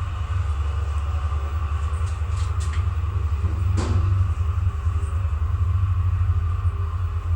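Elevator hoist winch running with a steady, loud low hum and a fainter higher drone over it, with a few faint clicks about two to four seconds in. The hum is the unwanted winch hum the video complains of.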